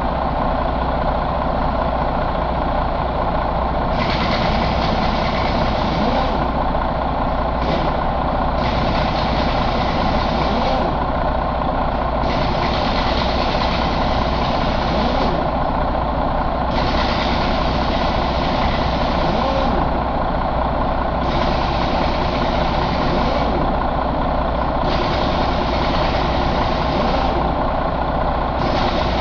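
Detroit DD13 inline-six diesel engine running steadily at idle. A high hiss switches on and off every two to three seconds over the engine sound.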